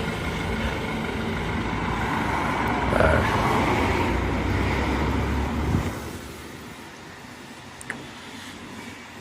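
A motor vehicle's engine running close by. It grows louder about three seconds in, then falls away sharply near six seconds as it moves off, leaving a quieter traffic hum.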